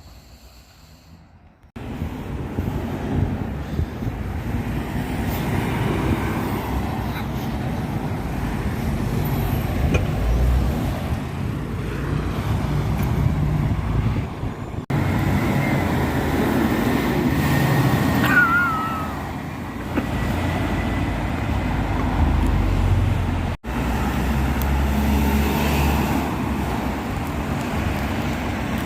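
Road traffic: vehicle engines running and passing, across a few short clips joined by sudden cuts.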